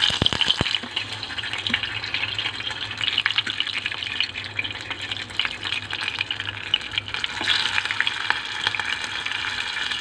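Two slices of luncheon meat frying in hot oil in an electric pot: a sudden burst of sizzling and crackling as they go into the oil, then steady sizzling with scattered pops.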